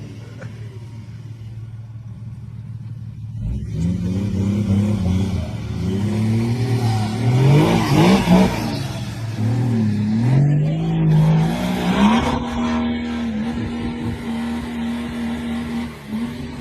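Off-road 4x4 engine idling, then revved up and down several times from about four seconds in, loudest around the middle, and held at steady high revs near the end.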